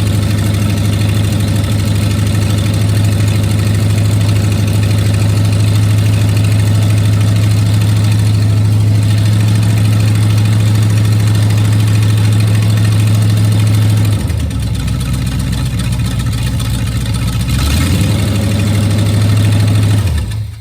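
V8 engine of a rat trike idling fast on the choke, running on fresh spark plugs and plug wires with all cylinders firing. The engine note drops and changes about two-thirds of the way through, then picks back up near the end.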